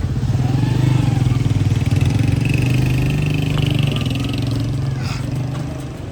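A motor vehicle's engine running close by as it passes, loudest in the first half and fading near the end.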